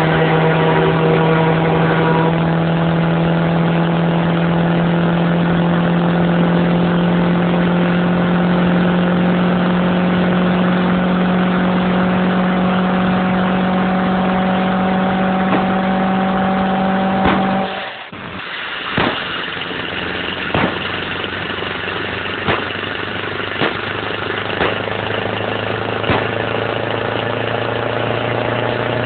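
Motorcycle engine running at a steady high pitch that climbs slowly. It cuts out abruptly about two-thirds of the way through, then gives way to a lower, steadier engine note with a sharp click every second or two.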